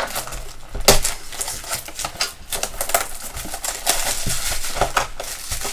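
Objects being moved and handled on a tabletop while someone searches for something: irregular clicks, taps and knocks with some rustling.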